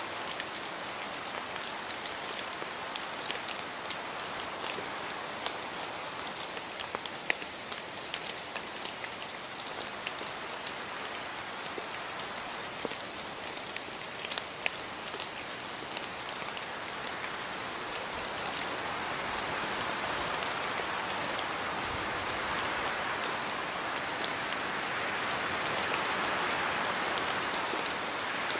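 Steady rain falling, with scattered sharp drop strikes on surfaces, growing a little heavier about two-thirds of the way through.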